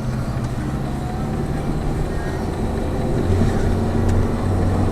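Lada Vesta Cross with the 1.8-litre engine, driving, heard from inside the cabin: a steady low engine drone over tyre and road noise. The engine note grows a little louder about three seconds in.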